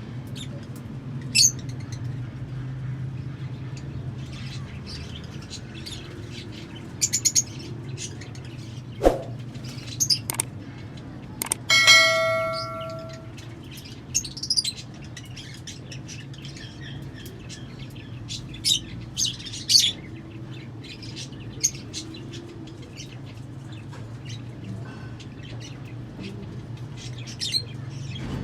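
Lovebirds chirping: short, sharp high calls scattered through, over a steady low hum. About twelve seconds in, one bell-like ring dies away over a second or so, just after a sharp knock.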